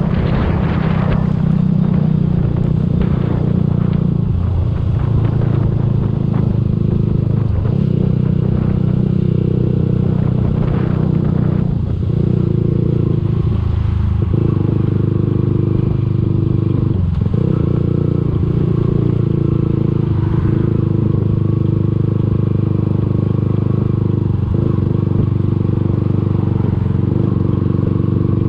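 Yamaha YZF-R125's 125 cc single-cylinder four-stroke engine running through its exhaust, a steady engine note broken by a few brief dips in pitch and level.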